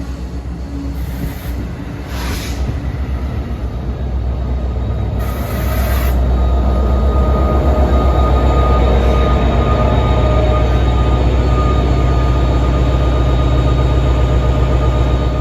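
NJ Transit commuter train passing close by: a heavy, low rumble of engine and wheels that builds over the first few seconds and then holds, with a thin steady whine above it.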